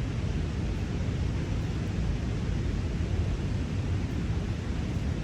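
A steady, even low rumble of outdoor noise with no distinct events.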